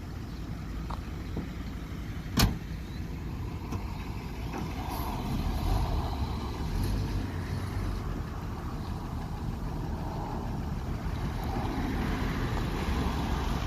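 Engine of a 1950 Chevrolet 2-ton truck running steadily at idle, with one sharp click about two and a half seconds in.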